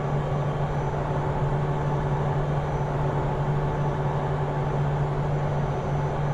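Pilatus aircraft's engine and propeller drone in the cockpit during the climb after takeoff: a steady hum with one strong low tone.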